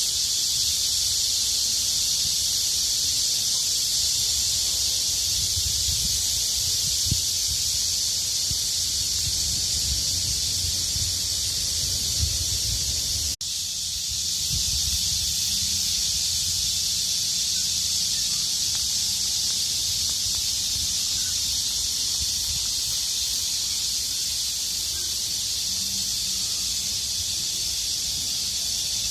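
Chorus of many cicadas: a dense, steady high-pitched drone, with a low rumble beneath it and a momentary break about thirteen seconds in.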